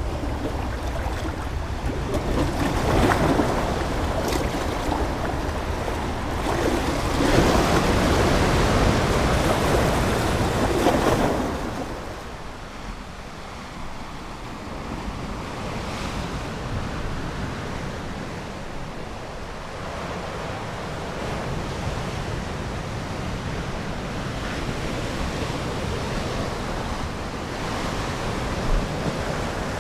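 Ocean waves breaking and washing in, with two louder surges in the first eleven seconds, then a softer, steady wash.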